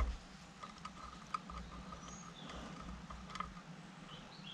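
Faint scattered clicks and light scraping of a metal hydraulic pump part being moved around while it is measured for flatness, with a few sharper ticks over a steady low hum.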